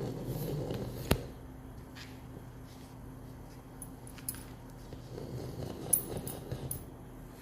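Pug snoring in its sleep: two snores about five seconds apart, one right at the start and one about five seconds in. A sharp click comes just after the first snore, and a few lighter clicks come during the second.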